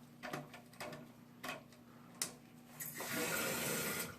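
A few light clicks, then water hissing through the new toilet tank fill valve for about a second before cutting off.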